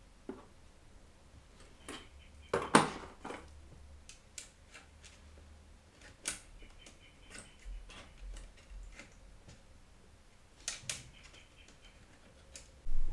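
Scattered clicks, taps and knocks of computer parts being handled and fitted into a PC case, with the loudest knock about three seconds in and another cluster of clicks near the end.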